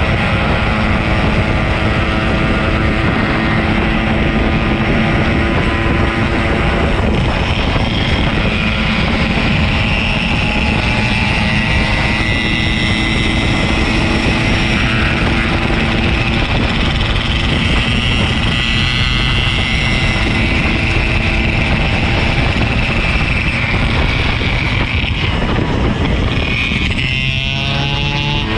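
Two-stroke Yamaha RX-King 135 motorcycle running steadily under way, with heavy wind noise on the microphone. Near the end the engine pitch shifts as the revs change.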